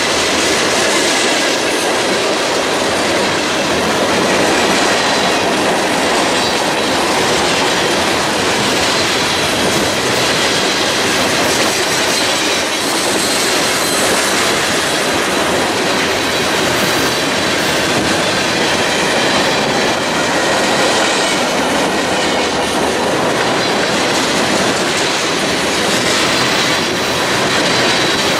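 Freight cars of a CSX mixed freight train rolling steadily past at close range: steel wheels on the rails, with the clickety-clack of the cars passing over the rail joints.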